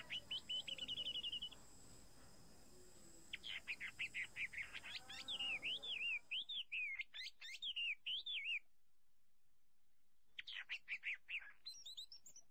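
A songbird singing in three bouts of quick, high chirps and trills, with short pauses between them.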